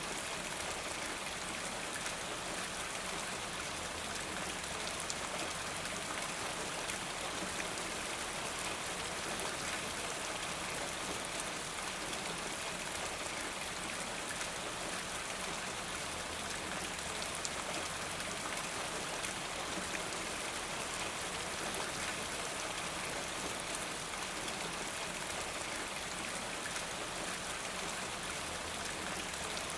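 Steady rain falling, a dense, even hiss of drops with scattered small ticks.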